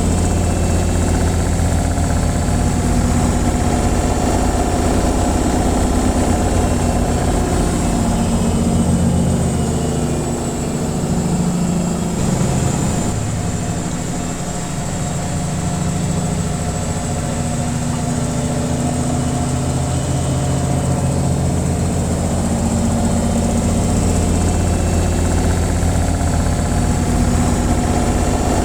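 Washing machine on its spin cycle: a steady mechanical drone with a strong low hum. About halfway through, the hum eases and shifts in pitch for a few seconds, then settles back.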